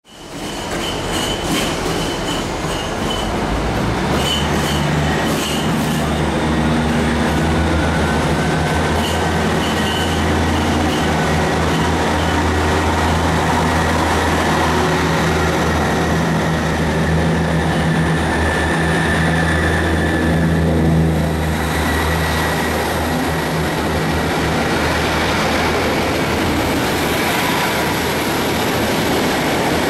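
A Great Western Railway diesel multiple-unit train running past close by along the platform: a steady low engine drone over the rumble of the carriages, with thin high-pitched squealing from the wheels. The engine drone drops away about two-thirds of the way through while the carriages keep rolling past.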